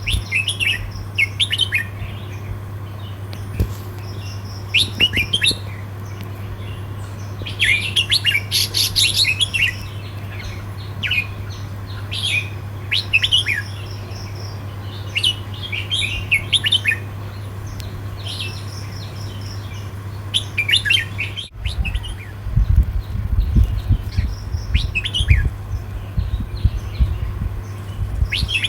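Red-whiskered bulbul singing short, quick warbled phrases again and again with brief pauses between them, in the counted-phrase song style bred for southern Thai bulbul contests. A steady low hum runs underneath. After a brief dropout about three quarters of the way in, low thumping rumbles join the song.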